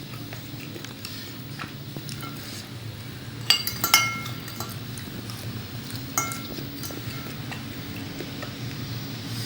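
Eating utensils clinking against dishes: two sharp, ringing clinks about three and a half and four seconds in, and another about six seconds in, over a steady low hum.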